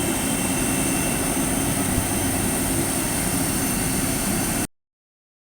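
Airliner engines running steadily, with a high whine over the engine noise; the sound cuts off abruptly near the end.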